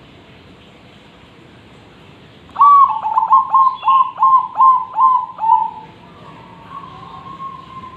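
Zebra dove cooing. About two and a half seconds in, it gives a quick run of about eight loud coo notes, roughly three a second, then a softer, longer trailing note.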